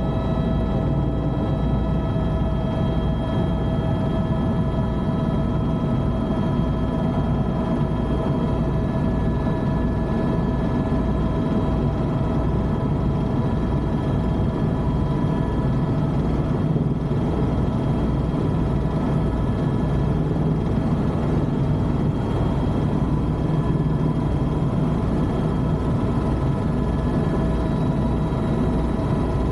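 Steady helicopter noise heard from inside the cabin in flight: the turbine's constant whine over the low, evenly pulsing beat of the rotor.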